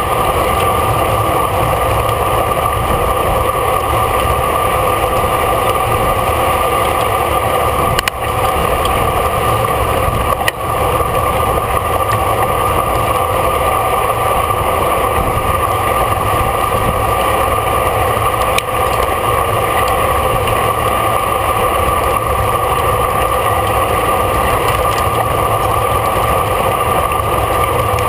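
Steady rush of wind and road rumble on a camera mounted on a racing bicycle at speed, with a few faint clicks.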